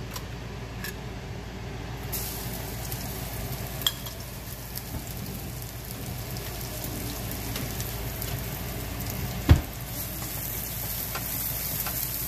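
Ginger-garlic paste sizzling in hot coconut oil in a frying pan, the sizzle starting about two seconds in as the paste hits the oil, while a wooden spatula stirs it. One sharp knock sounds about three-quarters of the way through.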